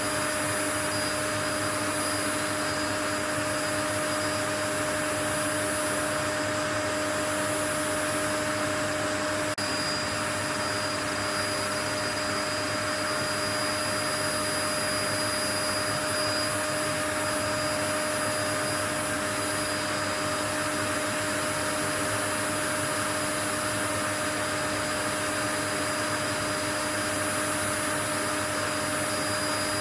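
Steady white noise: an even, unchanging hiss with a few constant humming tones running under it, like a vacuum cleaner or similar appliance running without pause.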